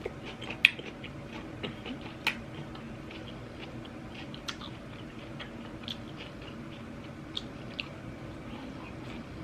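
A person chewing food with mouth close to the microphone, soft and faint, with a few sharp clicks scattered through it over a low steady room hum.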